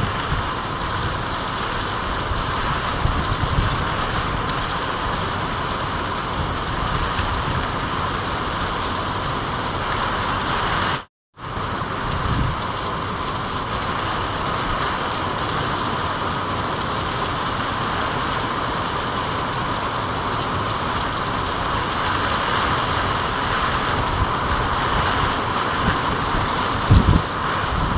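Steady rain falling, a continuous even hiss, with a few low thumps; the loudest comes near the end. The sound cuts out completely for a moment about eleven seconds in.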